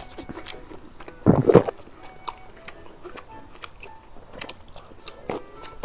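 Close-miked chewing and wet mouth clicks of someone eating oily, chili-dressed noodles, with one louder, longer mouth noise about a second and a half in.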